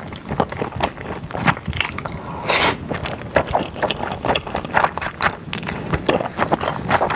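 Close-miked mouth sounds of a person chewing a mouthful of glass noodles and beef brisket: wet smacking and clicking at a quick, irregular pace, with one brief louder hiss about two and a half seconds in.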